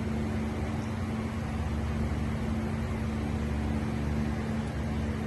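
Steady background machine hum: a constant low rumble with a single held tone and an even hiss.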